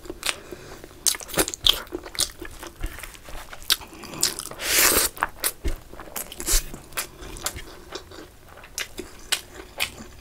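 Close-miked chewing of a handful of rice and chicken curry, full of short wet mouth clicks and smacks. There is a louder, longer burst of noise about four and a half seconds in.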